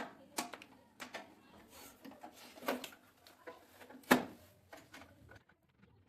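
A series of irregular clicks and knocks, as of handling work, with the loudest knock about four seconds in.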